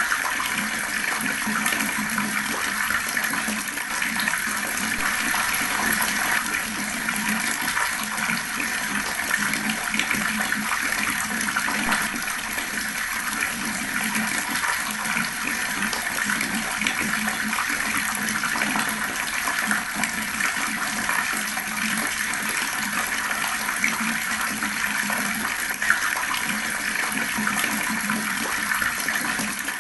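Fast-flowing water rushing and splashing in a steady, unbroken stream.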